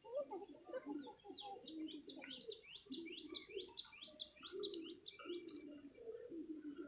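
Birds chirping in a fast series of short falling notes, with low cooing, like a dove's, underneath.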